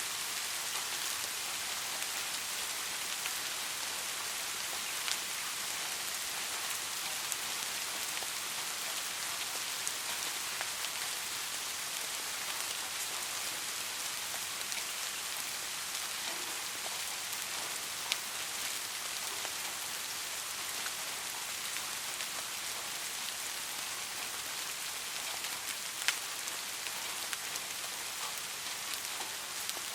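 Steady rain falling, an even hiss, with a few louder single drip ticks now and then.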